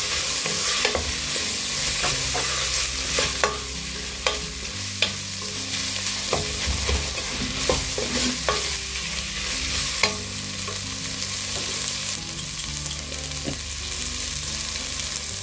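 Onions, tomatoes and spice powders sizzling in oil in a stainless steel pressure cooker as a wooden spatula stirs them, with frequent scrapes and taps of the spatula against the pot.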